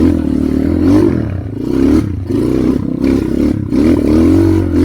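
Trail motorcycle engine revving in repeated surges, its pitch rising and falling about once a second as the throttle is worked on a climb.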